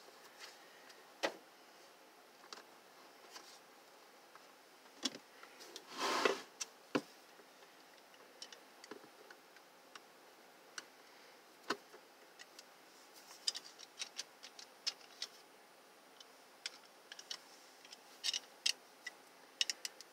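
Scattered light clicks and taps from space-heater parts being handled and fitted back together by hand, with a louder short noise about six seconds in and a run of quick small clicks later on.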